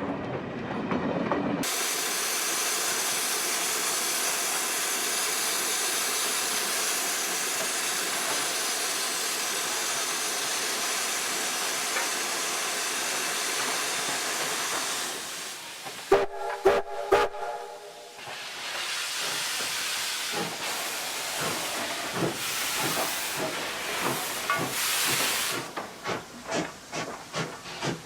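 Z19 class steam locomotive hissing steadily with escaping steam, then giving a few short blasts on its steam whistle about sixteen seconds in. Near the end the hiss gives way to a run of regular exhaust beats, about two a second, as the locomotive works.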